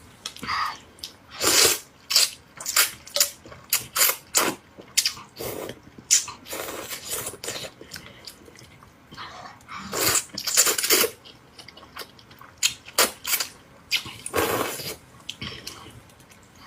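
Close-miked eating sounds: a run of wet mouth noises, chewing and smacking, broken by several longer slurps about a second long.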